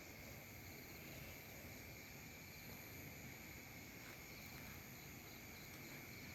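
Faint, steady chirring of insects, a continuous high drone with no breaks.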